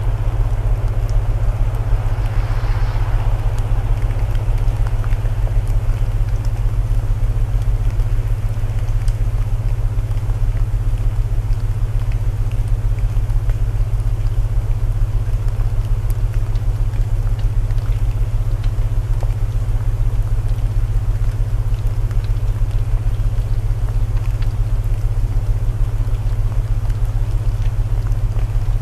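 Layered relaxation soundtrack: a steady low binaural-tone hum, with an even hiss of rain over it and faint crackles of burning wood.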